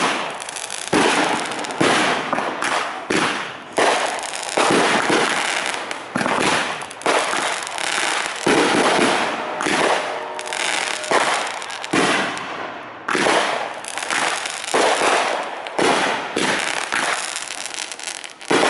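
Aerial fireworks shells bursting in quick succession, a loud bang every second or so, with crackling between the bangs.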